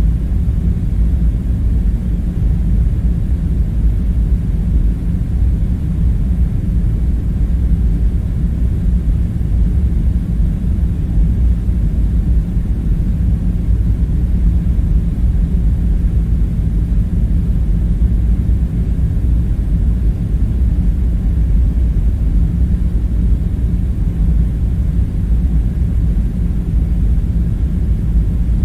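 Steady low rumbling drone, an even background hum with nothing standing out from it.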